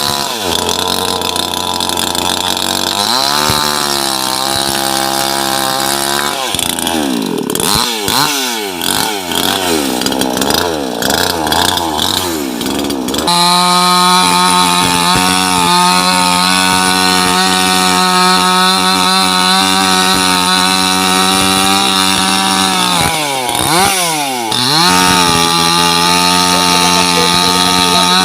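Chainsaw engine revving up and down repeatedly, then running steadily at high revs from about halfway through. Near the end its speed dips briefly and picks back up.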